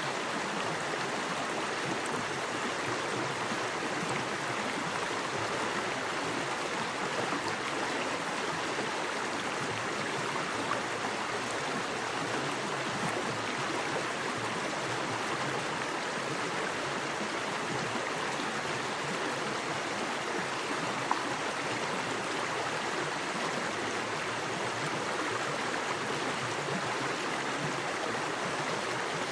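Small woodland creek with fast water rushing and splashing over rocks: a steady, even rushing.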